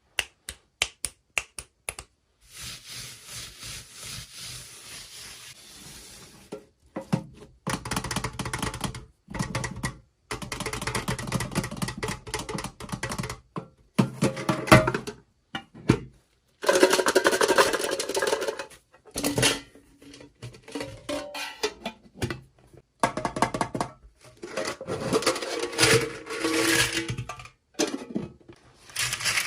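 Toy packaging being handled: a quick run of sharp clicks, then bursts of crinkling, rustling plastic that start and stop abruptly.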